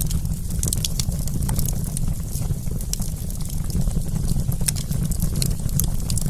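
Wood campfire crackling: frequent, irregular sharp pops and snaps over a steady low rumble.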